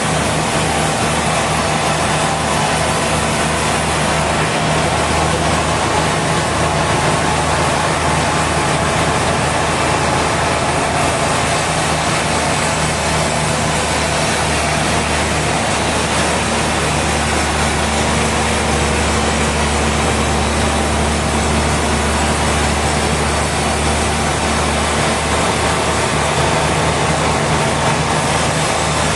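Sawmill machinery running steadily: a low engine hum under a loud, even rushing noise.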